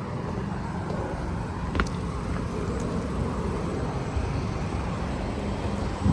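Carrier rooftop HVAC unit running, a steady mechanical hum with a sharp click about two seconds in.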